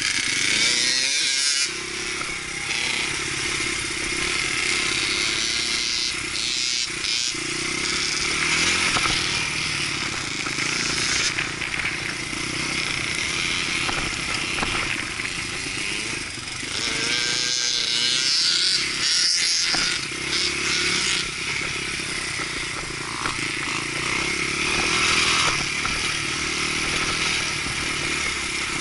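Dirt bike engine running continuously under riding load. Its pitch rises and falls as the throttle is worked.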